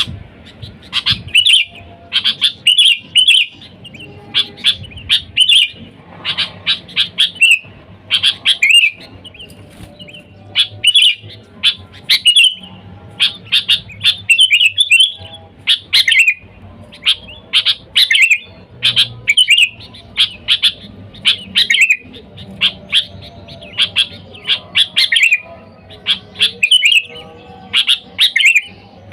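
Sooty-headed bulbul (kutilang) singing in lively 'gacor' form: short, bright chirping phrases repeated over and over with brief pauses, the call used to draw in wild bulbuls.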